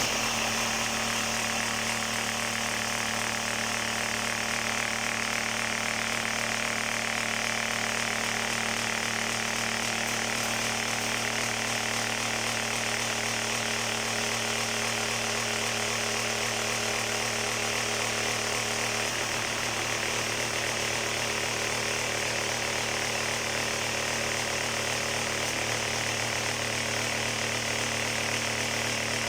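Concrete vibrating table running with a steady, unchanging hum, shaking freshly poured concrete in a fireplace mould so it spreads and settles.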